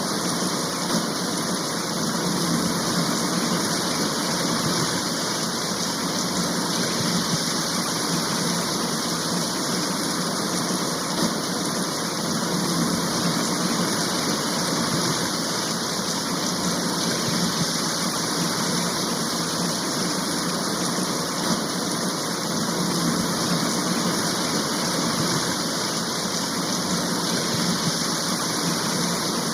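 Steady rain shower: an even, unbroken hiss of heavy rainfall.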